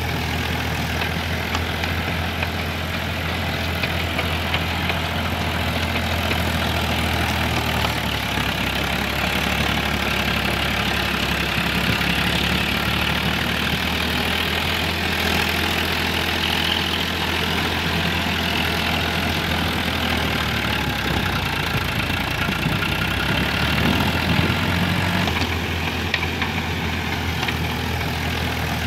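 An engine running steadily at idle, a continuous low hum with a mechanical rattle.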